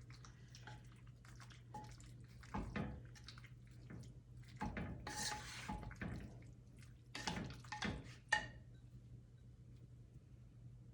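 Basil being sprinkled over a dish of pasta: several short rustling, scraping bursts from the food and its container, with a sharp click just after 8 seconds in, over a steady low electrical hum.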